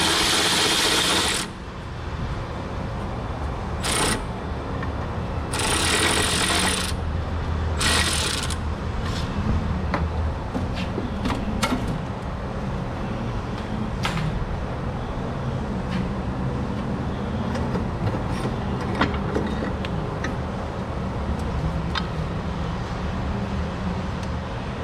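Short bursts of a power tool: a long one ending about a second in, then three shorter ones over the next several seconds. After them comes a steady low mechanical hum with scattered clicks and knocks of hand tools on metal.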